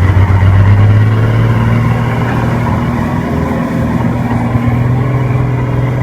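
Heavy diesel engine running under load, loud and steady; its note rises a little about a second in, then holds.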